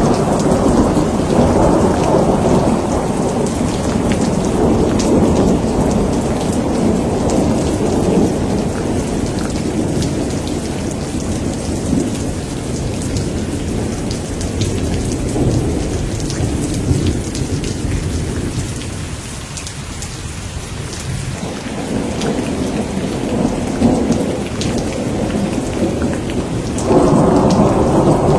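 Thunderstorm: steady rain with rolling thunder rumbling underneath. The rumble eases off about two-thirds of the way through, then builds again and swells suddenly near the end.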